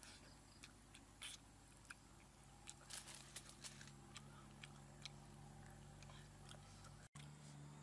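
Faint chewing and biting of grilled chicken, with a scatter of short clicks between about one and five seconds in, over a steady low hum.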